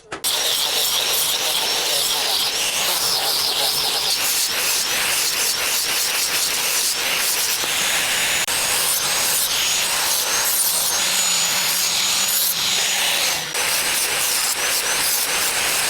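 Steel knife blade being sharpened against an abrasive: a steady, loud rubbing hiss with faint ringing tones that rise and fall across the strokes.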